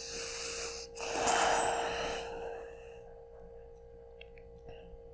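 A person breathing heavily into a close microphone: two long breaths, the second the louder, over a steady faint hum.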